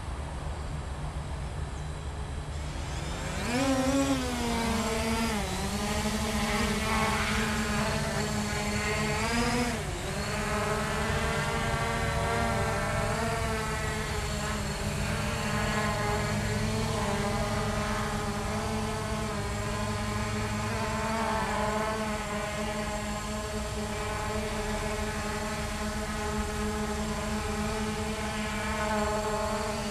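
Hubsan H501S quadcopter's brushless motors and propellers spinning up about three seconds in, their whine rising and wavering as it takes off, then settling into a steady pitched hum while it hovers. Under it runs a low steady rumble.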